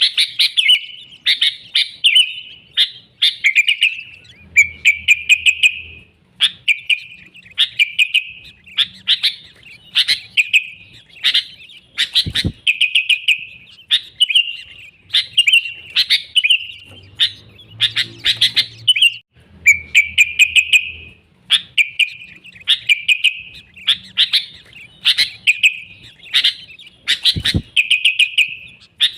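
Sooty-headed bulbul (kutilang) singing vigorously, short chirping phrases repeated over and over about once a second. Two sharp clicks cut in partway through.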